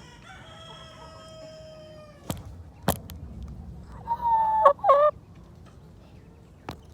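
A rooster crowing in one long, drawn-out call, then a few sharp knocks. About four seconds in comes a louder, shorter bird call whose pitch wavers and breaks.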